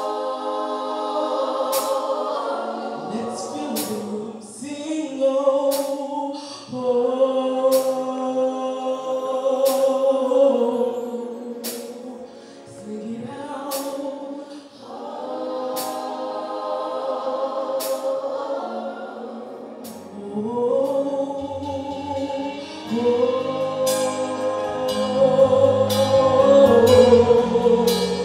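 Gospel choir singing sustained, harmonised chords in long phrases, with sharp clicks every second or two. Low bass notes come in about two-thirds of the way through.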